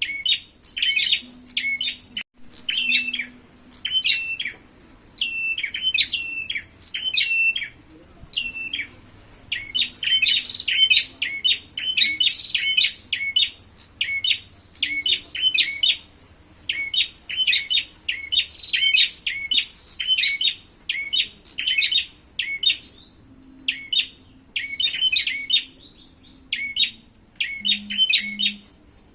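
Prenjak (prinia) birds giving rapid, sharp, chattering calls in quick series with barely a pause: the agitated calling of prenjaks fighting.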